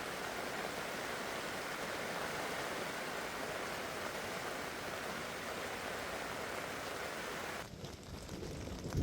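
Heavy rain falling steadily, a dense even hiss. Near the end it cuts off abruptly to a quieter, duller sound.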